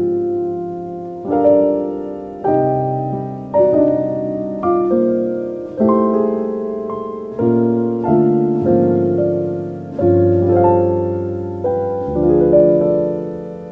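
Slow, gentle solo piano music: chords and notes struck about once a second, each left to ring and fade before the next.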